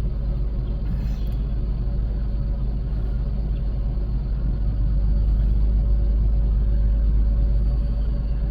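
Car idling, heard from inside the cabin as a steady low rumble with a faint steady hum, growing slightly louder about five seconds in.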